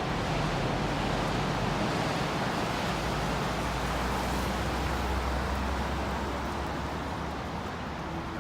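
Steady rushing outdoor street noise, with a low rumble that swells in the middle and fades.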